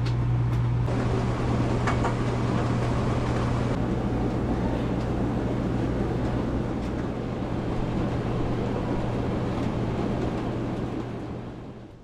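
Rain falling steadily, a dense even hiss with faint scattered drop ticks, over a steady low hum. It fades out near the end.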